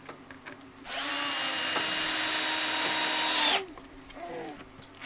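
Power drill running steadily for about two and a half seconds, then stopping; it starts up again right at the end.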